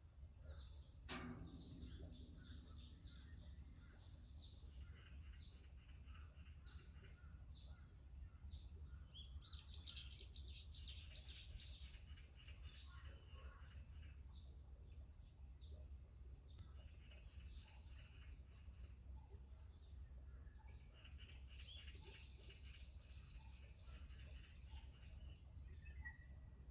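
Faint birdsong: several small birds chirping and twittering on and off, over a low steady rumble. A single sharp click about a second in.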